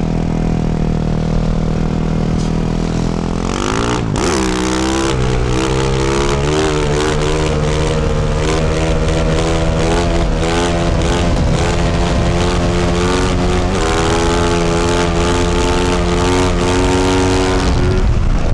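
2024 Yamaha YZ450F's single-cylinder four-stroke engine through a Yoshimura RS-12 exhaust, running steadily at low revs, then revving up sharply about four seconds in and pulling on, its pitch rising and falling with the throttle as the bike is ridden.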